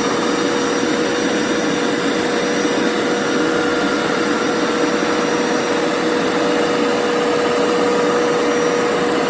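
Hoover Turbo Scrub carpet cleaner running steadily on carpet, its suction motor giving a constant whine over a rushing air noise as it sucks up the water.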